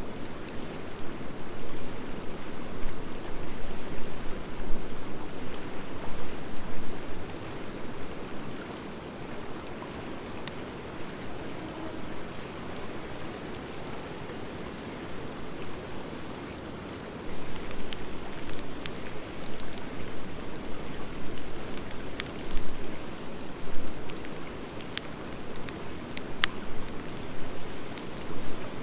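Wood fire of driftwood mixed with dry hardwood logs burning, a steady rushing of flames with scattered sharp crackles and pops. It eases off for a while, then grows louder a little past halfway, with the pops coming more often.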